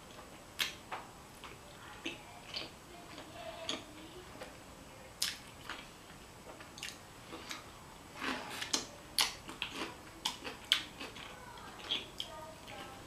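Close-up chewing of a mouthful of fettuccine alfredo: wet mouth clicks and lip smacks, scattered irregularly, coming thickest past the middle.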